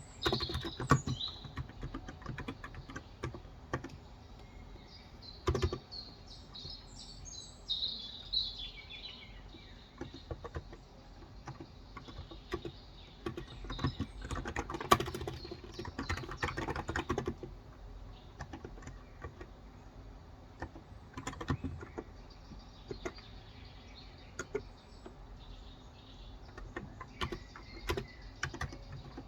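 Typing on a Cox Endeavor electrostatic capacitive (non-contact) tenkeyless keyboard with light 35 g switches, in irregular bursts of keystrokes. Birds chirp in the background near the start and again from about five to nine seconds in.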